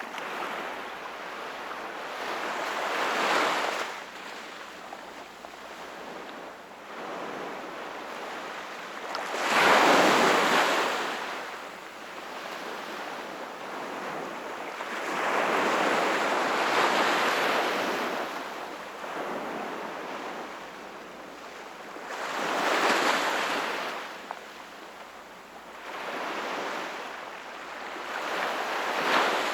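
Sea waves breaking and washing ashore, about five in a row, each rising to a hiss and falling away; the largest comes about a third of the way in.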